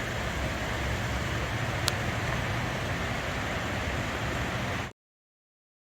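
Steady outdoor background rush with a faint tick about two seconds in, cutting off to dead silence about five seconds in.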